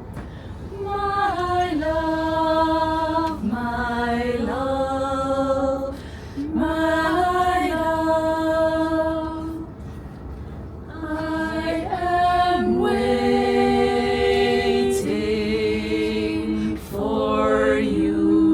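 Youth choir singing a cappella in phrases of long held notes, moving by steps, with short breaks between phrases; about halfway through the voices split into harmony. A steady low rumble runs underneath.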